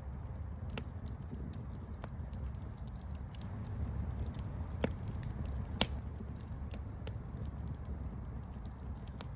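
Campfire burning: a steady low rumble of the flames with scattered crackles and snaps of burning wood, and two louder pops a little before and a little after the middle.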